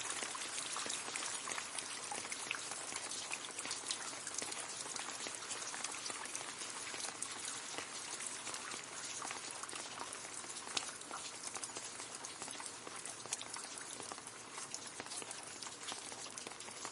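Gentle rain falling on leaves: a steady patter of many small drops with individual drips ticking through it, easing slightly near the end.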